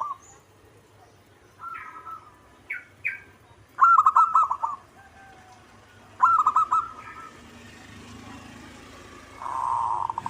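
Zebra dove (perkutut) cooing: several short bursts of quick, staccato coo notes, the loudest phrases about four and six seconds in and a longer run of notes near the end.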